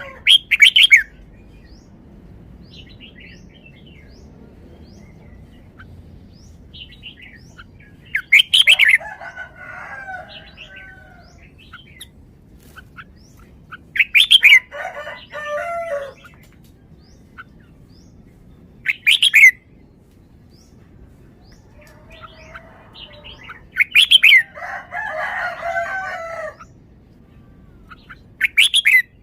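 Red-whiskered bulbul singing: loud, short phrases repeated about every five seconds, several of them followed by softer warbling.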